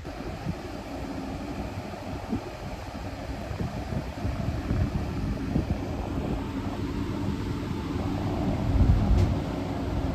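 Wind buffeting the microphone over a low rumble that slowly grows louder.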